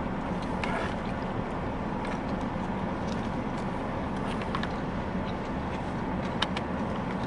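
Steady low rumble of a car heard from inside the cabin, with a few faint small clicks scattered through it.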